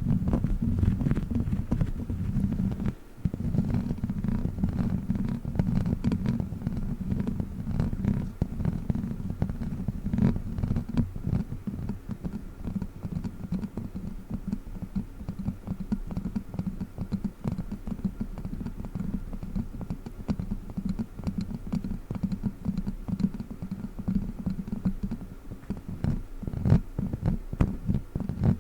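Witch-finger props tapping and scratching in quick, dense, irregular strokes, with heavy low rumbling thumps under the patter.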